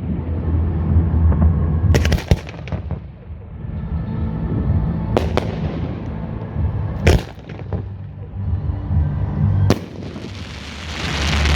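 Aerial fireworks bursting: sharp reports every two to three seconds, a quick cluster of several about two seconds in, and a rising crackling hiss near the end, over a steady low rumble.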